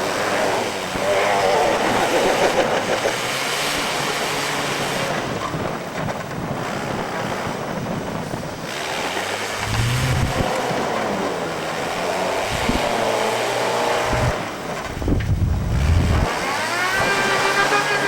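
A car stuck in deep snow, its engine revving and its drive wheels spinning in the snow with a whine that rises and falls several times as it fails to pull free. Wind gusts buffet the microphone now and then.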